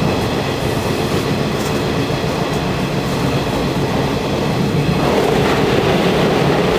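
Steady running noise of a local electric train heard inside the passenger car: wheels rumbling on the rails with some clickety-clack, growing slightly louder about five seconds in.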